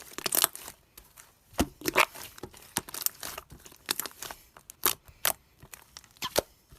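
Slime being pressed and squeezed by hand, giving irregular sharp clicks and pops.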